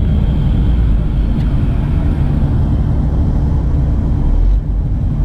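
Heavy diesel construction machinery engine running steadily, a loud low rumble.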